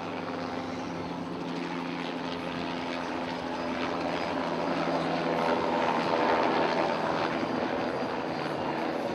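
Bell 206B JetRanger helicopter flying past, its turbine and rotor running steadily, growing louder to a peak about six seconds in and then fading a little.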